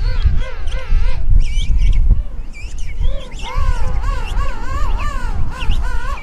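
A flightless bird calling repeatedly in quick wavering calls that rise and fall in pitch, several to a second, over a heavy low rumble.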